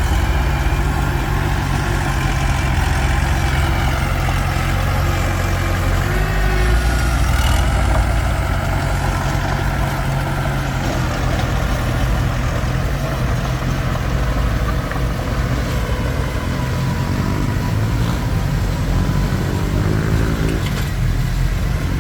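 Komatsu D21P crawler bulldozer's diesel engine running steadily, its pitch shifting a little now and then.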